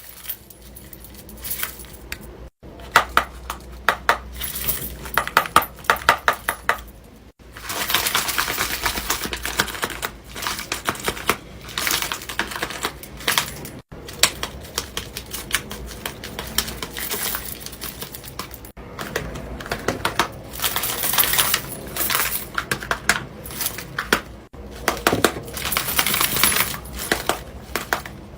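Folded-paper dragon puppets having their jaws worked open and shut: rapid crinkling, snapping clicks of stiff paper, in a run of short clips that break off abruptly several times.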